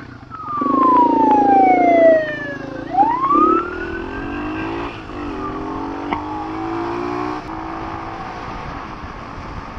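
An emergency vehicle's siren wailing, its pitch sweeping down and then back up about three seconds in. Under it, the Kawasaki KLX250SF's single-cylinder engine is loud for the first couple of seconds, then runs on more quietly.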